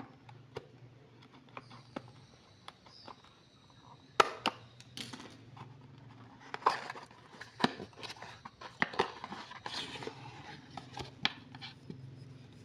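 Packaging being handled and opened by hand: scattered light clicks and taps, then from about four seconds in a busier stretch of crinkling, rustling and scraping.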